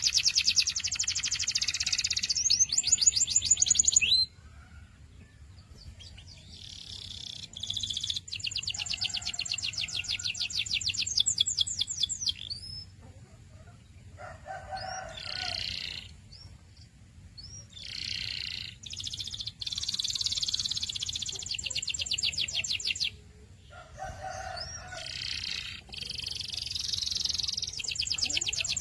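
Domestic canary singing: phrases of rapid trilled rolls, each a fast run of evenly repeated high notes, separated by short pauses.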